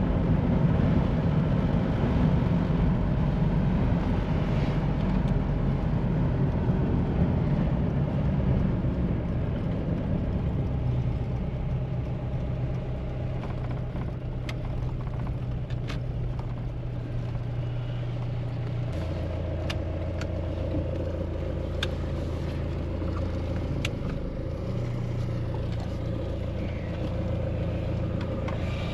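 Mahindra Bolero's engine running while the SUV is driven, with steady road noise. The engine note holds steady, drops in pitch about two-thirds of the way through, then rises again near the end, with a few sharp clicks in between.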